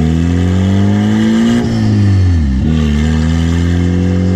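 Turbocharged Mazda Miata four-cylinder engine under acceleration, its pitch rising. About a second and a half in the revs drop sharply through a gear change, then the engine pulls again in the next gear, shifted short of 4,000 rpm where this untuned engine breaks up.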